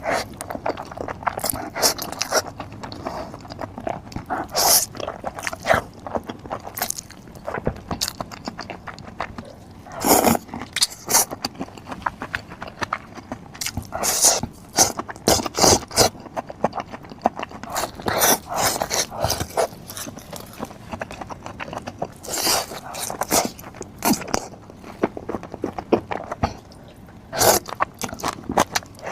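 A person eating close to the microphone: irregular bites and chewing, with short clicks and scrapes coming in bunches every second or two.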